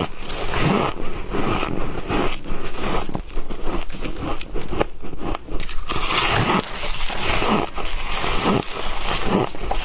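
A person biting into and chewing frost: a dense run of crisp crunches and scrapes that keeps going throughout.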